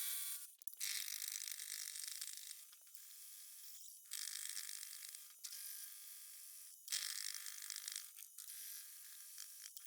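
Small milling machine's spindle running as an insert-tipped cutter takes light cuts in metal: a high, scraping cutting noise over a steady motor hum, in stretches of one to three seconds with short breaks between them.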